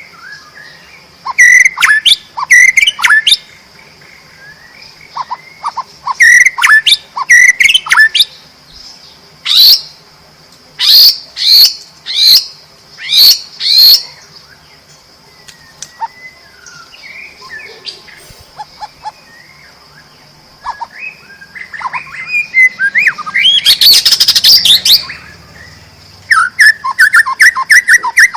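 White-rumped shama (murai batu) singing loud, varied song in separate phrases of sharp whistled notes that sweep steeply in pitch, with softer chattering in the gaps. A dense, loud rush of song comes a little past the middle.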